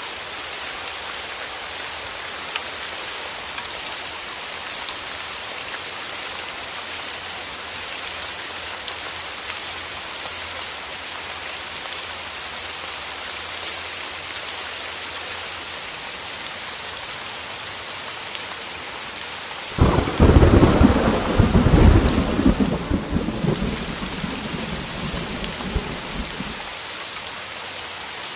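Heavy rain falling in a steady hiss. Near the end, a thunderclap breaks in suddenly and rumbles on for several seconds before fading back under the rain.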